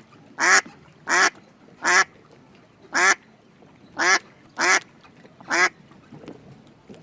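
Duck-like quacking: seven short, loud quacks spaced about half a second to a second apart, stopping about two-thirds of the way through.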